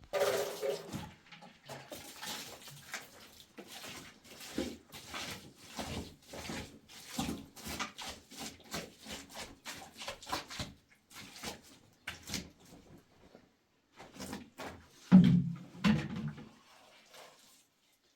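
A run of irregular knocks and scrapes, with one louder heavy thump about fifteen seconds in.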